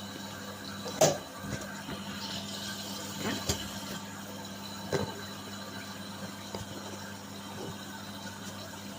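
Whirlpool washing machine running: a steady low hum with a few separate knocks, the sharpest about a second in.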